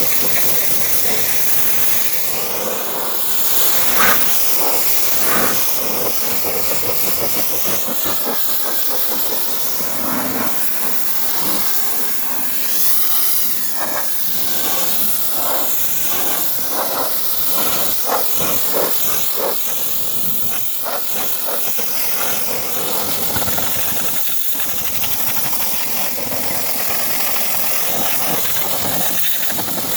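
Steady loud hiss of a high-pressure cleaning jet, its tone sweeping slowly up and down as the nozzle moves, with short sputters here and there.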